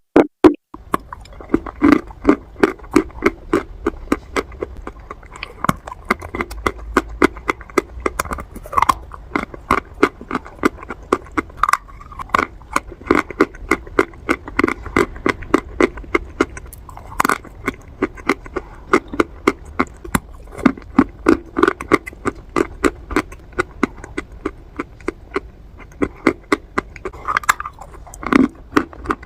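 Close-miked chewing of crunchy baked clay pot pieces: crisp crunches, several a second.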